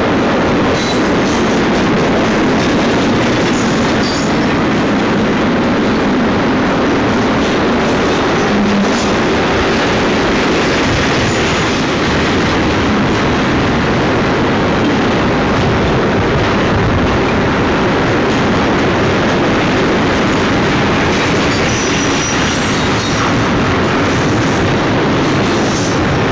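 Double-stack container cars of a Union Pacific freight train rolling past close by: a steady, loud rumble and clatter of steel wheels on rail, with faint high wheel squeals now and then.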